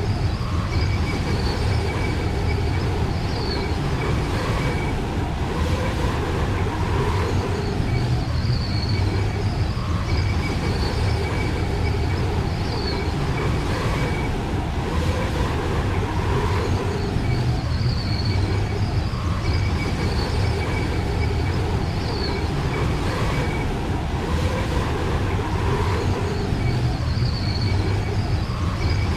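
Steady low rumbling roar of wind with faint thin whistling tones. The same pattern repeats about every eight seconds, as a looped blizzard ambience track does.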